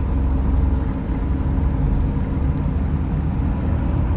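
Van's RV-10's single piston engine and propeller running steadily at low power, a constant low drone, as the aircraft rolls onto the runway just before takeoff power is applied.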